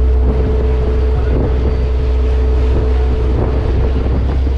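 Boat engine running steadily with a low drone, with wind buffeting the microphone.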